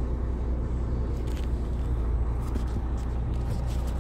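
Car-transporter truck's engine running steadily with a low rumble as the rig moves off, with a few faint ticks from about a second in.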